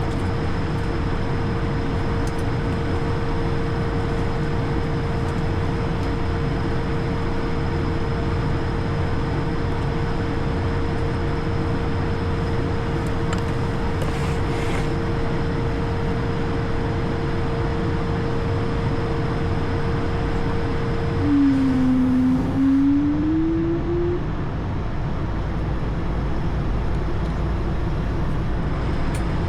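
Steady ambient cockpit noise of an Airbus A220: a constant hum and rumble with a steady mid-pitched tone. About 21 seconds in the tone stops and a brief lower tone dips and then rises in pitch for about three seconds.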